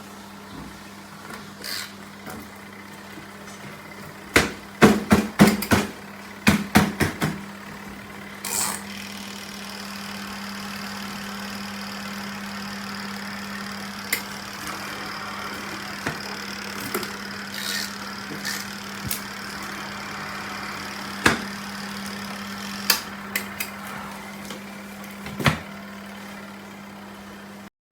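Mini twin-tub washing machine running with a steady motor hum. A cluster of sharp knocks and clatters comes about four to seven seconds in, with scattered single knocks later, and the sound cuts off suddenly just before the end.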